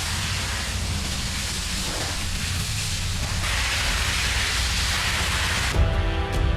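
Motorcycle running on the move, its engine a steady low rumble under heavy wind noise on the microphone. Music comes in near the end.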